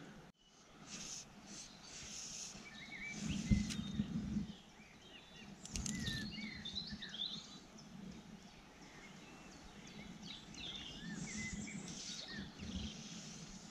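Small birds chirping and calling in short rising and falling notes throughout, over a low outdoor rumble, with a couple of soft knocks.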